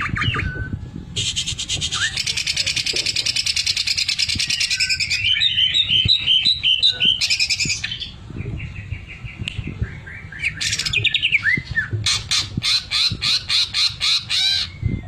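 Cucak ijo (green leafbird) singing: a long, fast, buzzing rattle from about one to five seconds in, its imitation of a sewing machine, followed by varied chirps and whistled glides and another run of rapid repeated notes near the end.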